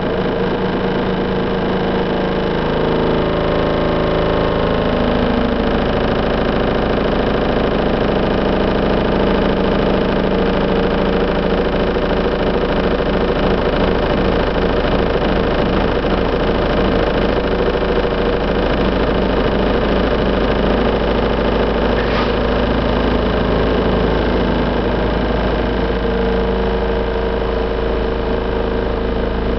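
Heavy construction machinery working the roadway, its diesel engine running with a constant low rumble and vibration. The engine note shifts a little in pitch a few seconds in and again near the end, as the machine moves back and forth.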